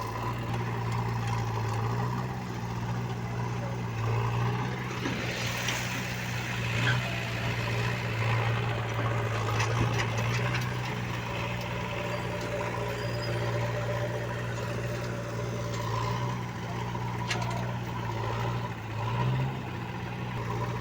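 Diesel engine of earth-moving machinery running steadily, rising in pitch briefly several times as it takes load, with a few metallic clanks.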